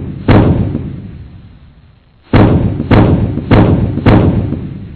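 A series of deep booming thuds, each dying away slowly: one just after the start, a pause, then four more about 0.6 s apart.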